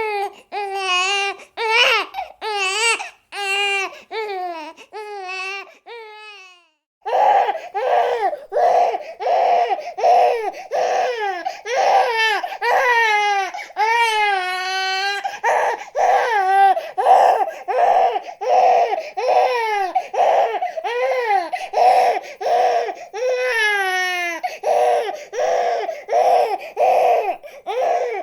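Baby crying in short repeated wails, a little over one a second. It breaks off briefly about seven seconds in, then starts again with faster, higher-pitched wails.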